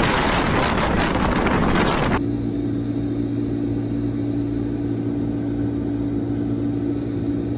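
Strong sandstorm wind blasting against the microphone as a loud rushing noise. About two seconds in it cuts off abruptly to a steady low mechanical hum with a few fixed tones, like a running engine.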